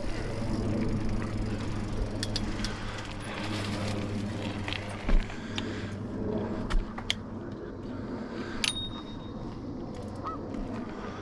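Rattling and jangling of a ridden vehicle on a rough towpath, with sharp clicks and knocks scattered through it over a steady low hum.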